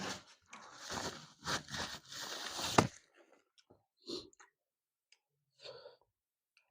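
Close-up eating sounds: chewing and food being handled, in irregular bursts over about three seconds that end in a sharp click, then only a few faint small sounds.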